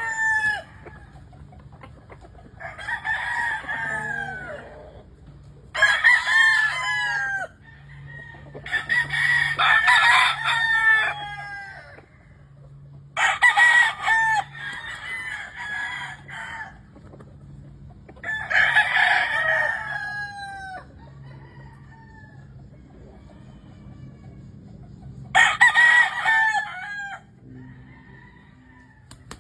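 Gamefowl roosters crowing in turn, about seven crows a few seconds apart. Some overlap, and each ends on a falling note.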